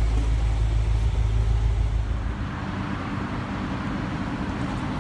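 Lamborghini Huracán Spyder's V10 engine idling with a steady low rumble. About two seconds in, the deepest part of the rumble drops away and a steadier, higher hum carries on.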